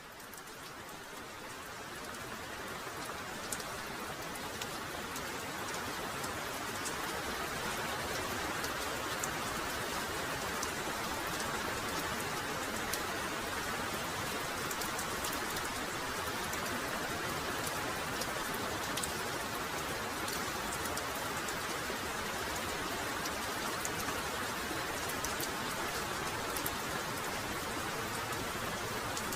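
Heavy rain pouring steadily, fading up over the first several seconds, with individual drops ticking sharply above the hiss.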